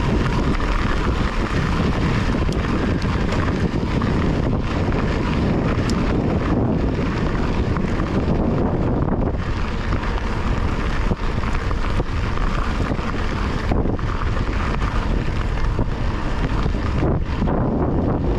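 Heavy wind buffeting on a chest-mounted GoPro's microphone while riding a mountain bike along a trail, a loud steady low rumble.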